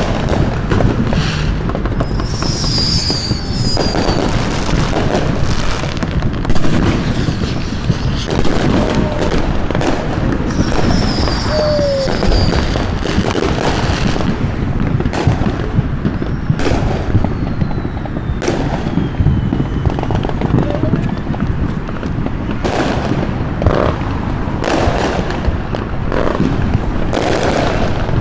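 Many fireworks going off at once: a steady low rumble of booms with sharp cracks packed in among them. A few whistling rockets give high tones that fall in pitch.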